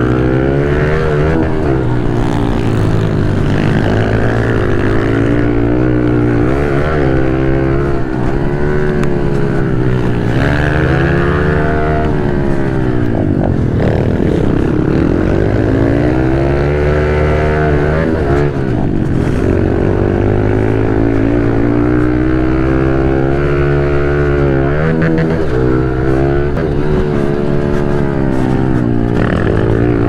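A 110 cc pit bike's single-cylinder four-stroke engine at race pace, its pitch climbing and falling again and again as the rider accelerates, shifts and backs off, dropping lowest about halfway through before winding up again.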